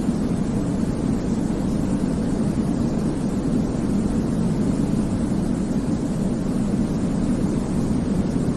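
Steady, deep, rumbling white noise of the kind played to help babies sleep, unchanging in level and weighted toward the low end rather than hissing.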